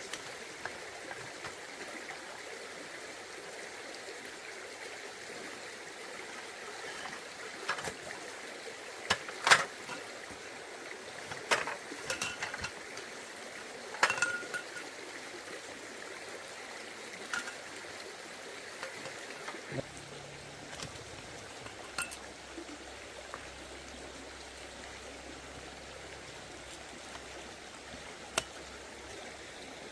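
Forest stream flowing steadily. A handful of sharp knocks and clinks sound between about eight and fourteen seconds in, one with a brief metallic ring, and a few fainter ones follow.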